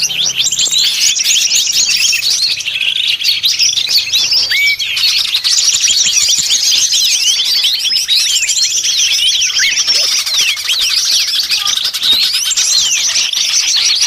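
Dense, unbroken chorus of many small songbirds chirping and twittering at once in quick high notes, a noisy flock of small birds layered as a bird-catcher's lure track meant to draw small birds in.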